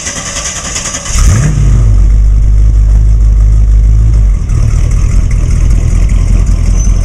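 A 1956 Chevrolet's 350 V8 crate engine with headers starting: it catches about a second in with a brief rev, then runs at a steady idle that settles a little lower about four seconds in.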